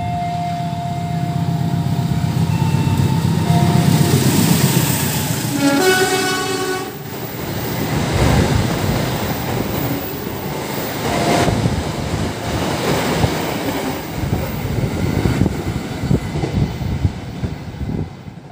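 Diesel-hauled passenger train passing through the station at speed. The locomotive's engine drones as it approaches, its horn sounds for about a second roughly a third of the way in, and then the coaches rush past with their wheels rattling on the rails.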